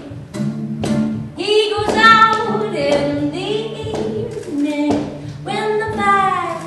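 Several voices howling like wolves in long rising and falling calls, a sung wolf-howl chorus, over a steady low accompaniment.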